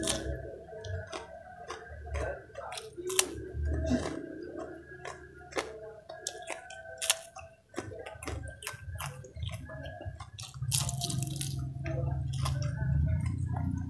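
Close-miked eating: crispy fried vegetable fritters (bakwan) and a fresh bird's eye chili being bitten and chewed, many sharp crunches and wet mouth clicks. A louder, longer crunch comes near the end.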